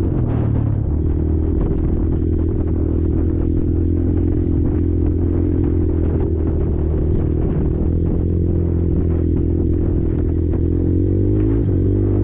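Kymco Maxxer 300 quad's single-cylinder four-stroke engine running at a steady pace under way, its pitch dipping briefly at the start and rising and easing again near the end, with the chassis rattling over the rough ground.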